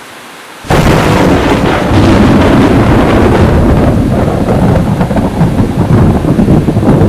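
Steady heavy rain, then about a second in a sudden, loud thunder crack that breaks into a long, crackling rumble over the rain.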